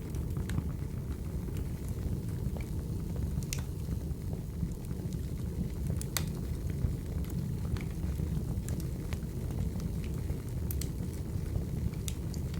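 Burning firewood: a steady low rumble of the fire with scattered sharp crackles and pops, a few louder ones standing out.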